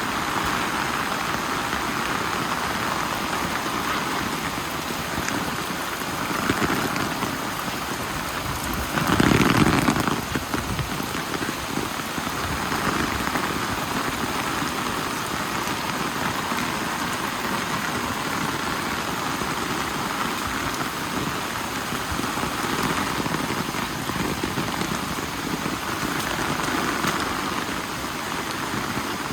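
Steady rain falling, with one brief louder swell of noise about nine seconds in.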